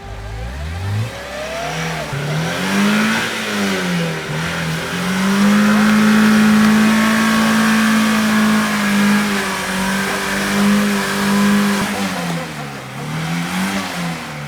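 Car engine revving hard: the pitch climbs over the first few seconds, holds at high revs with small rises and dips through the middle, then drops and picks up again near the end.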